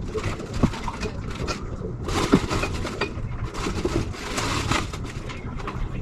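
Hand tools working on an engine: a few sharp metallic knocks and two stretches of rapid clicking and scraping.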